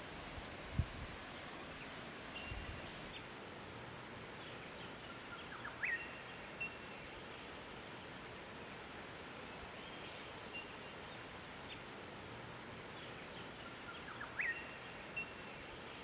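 Faint bush ambience with a small bird calling twice, each call a few quick rising chips that end in a short held whistle, among scattered high ticks. A soft low thump about a second in.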